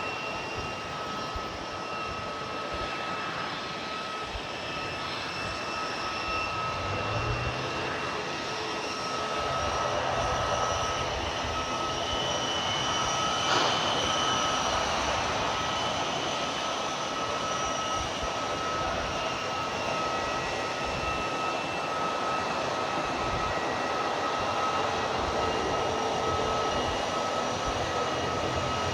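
Airliner engines running steadily, with a high, even whine over a rushing noise that grows a little louder about halfway through.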